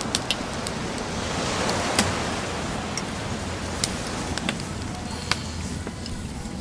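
Bonfire crackling with scattered sharp pops over the steady wash of ocean surf, a wave swelling up about two seconds in.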